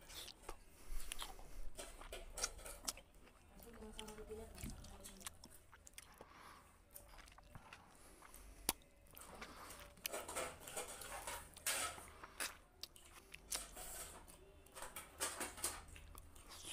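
Close-up eating sounds: a man chewing and smacking mouthfuls of rice and fried fish eaten by hand, with irregular wet mouth clicks.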